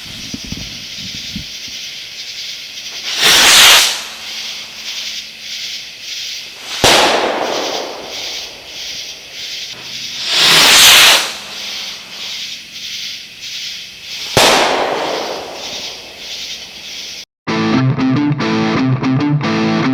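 Two Red and Blue Super Strober firework rockets launch one after the other, each with a rushing hiss, and each bursts with a sharp bang about three seconds later, amid fast crackling from the strobe effects. About three seconds before the end the sound cuts to electric guitar music.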